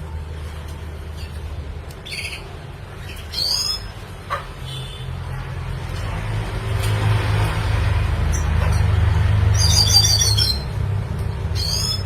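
Red siskin calling: short, scattered high chirps, with a quick run of repeated notes about ten seconds in, over a low rumble that swells in the middle.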